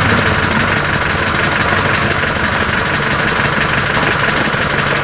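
Land Rover Defender's engine running steadily at low revs as the vehicle creeps forward at walking pace.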